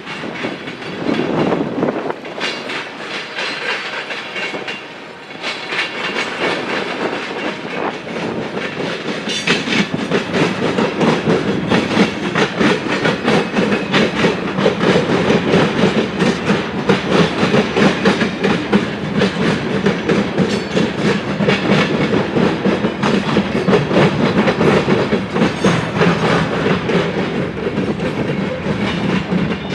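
Freight train cars rolling past, their wheels clicking steadily over the rail joints, getting louder over the first ten seconds or so and then holding.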